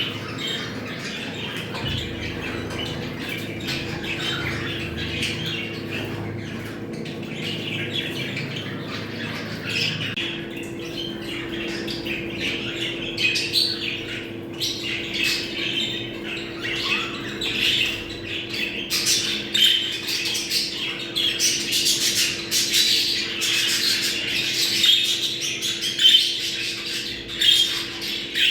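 A flock of budgerigars chattering and squawking without a break, growing busier and louder about halfway through, over a steady low hum. This is the kind of budgie chatter played to bring birds into breeding condition.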